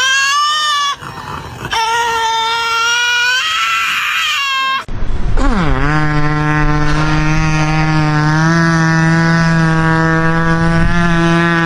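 Drawn-out animal cries: high, wavering calls with short breaks for about five seconds, then one call that drops in pitch and holds as a long, low, steady cry.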